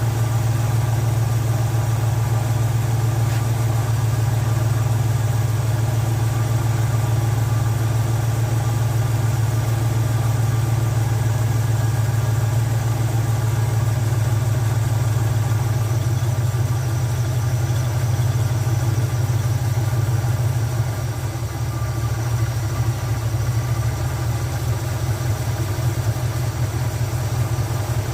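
Chevrolet 350 small-block V8 idling steadily while a carburetor idle mixture screw is turned in. About twenty seconds in, the idle drops and turns uneven, the engine seeming to run on only one side's idle circuit.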